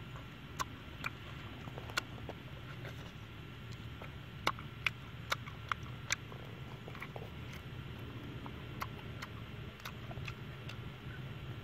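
Close-up eating sounds of roasted dove: chewing and small crunches, with sharp mouth clicks scattered irregularly, a cluster of them a few seconds in. A steady low background noise runs underneath.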